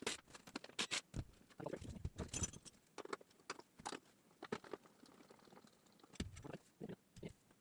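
Scattered, irregular clicks, taps and small knocks of hand tools and metal car parts being handled during suspension work.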